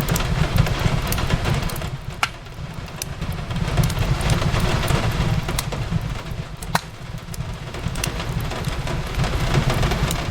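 Rain falling steadily on a window over a low rumble, with a wood fire crackling: scattered sharp pops, two of them standing out about two seconds in and near seven seconds.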